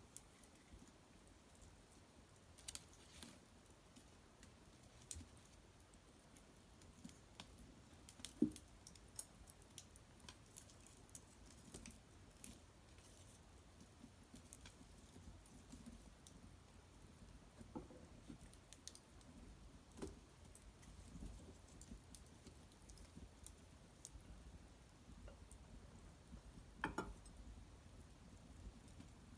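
Faint, irregular crackles and small pops of a wood fire burning in a hearth, with a slightly louder pop about eight seconds in and another near the end.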